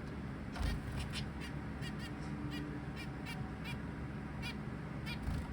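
Zebra finches calling: a run of about a dozen short, separate calls, a few tenths of a second apart.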